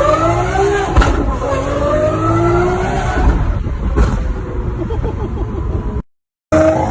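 Sports car with a loud aftermarket exhaust accelerating past, its engine pitch rising through a gear change about a second in, which comes with a sharp crack. A second crack follows about four seconds in, and the sound cuts out briefly near the end.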